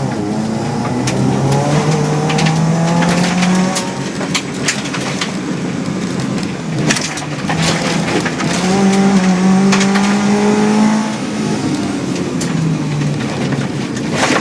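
Subaru rally car engine, heard from inside the cabin, accelerating hard: its pitch climbs, drops at a gear change about four seconds in, climbs again and drops near eleven seconds. Scattered sharp knocks from the road surface come throughout.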